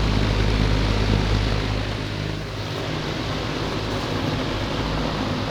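Late-1970s Eagle Aire box fan with three metal blades running, its motor humming under a steady rush of air; the hum eases a little about two seconds in.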